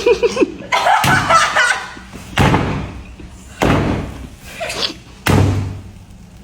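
Four heavy thuds, each sudden and dying away over about a second, spaced roughly a second and a half apart.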